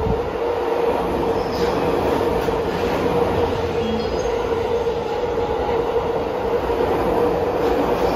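E231-1000 series electric train passing through a station at speed without stopping: the steady noise of its wheels running on the rails, with a steady hum held throughout as the cars go by.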